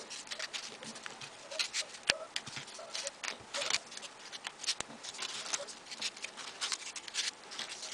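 Folded paper origami units rustling and clicking as they are pushed onto the modular model, a run of irregular short crackles and taps.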